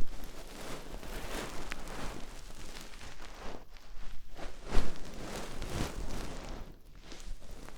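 Ear-cleaning sounds close in a binaural microphone's ear: irregular scraping and rustling rubs, with a louder stroke near the start and another about five seconds in.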